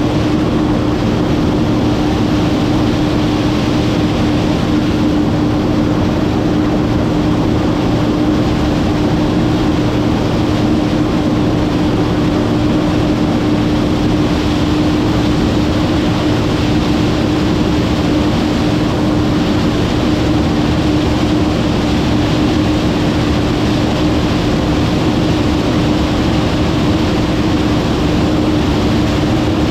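Massey Ferguson 9690 combine running steadily under load while shelling corn: an even mechanical drone with a strong, constant hum, holding the same pitch throughout.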